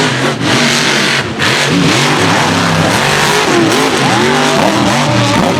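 Mega truck engine at full throttle on a mud race pass, its pitch rising and falling over and over as the revs climb and drop, over a loud, dense noise.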